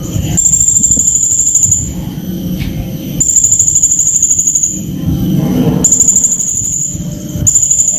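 Blue-crowned hanging parrot (srindit) calling in shrill, very high, rapid trills, in bouts of about a second or so, four times, with short gaps between. A low rumble of background noise runs underneath.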